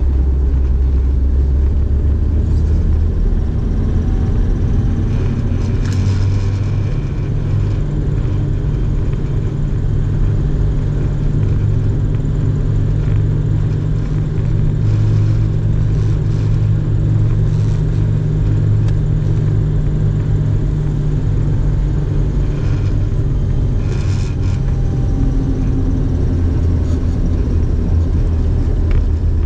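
A car driving along, its engine and the road giving a steady low rumble, with a few faint clicks.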